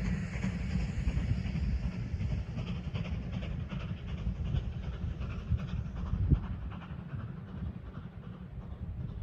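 Preserved steam train drawing away, with a rhythm of faint exhaust beats and wheel clatter over a low rumble, all fading gradually.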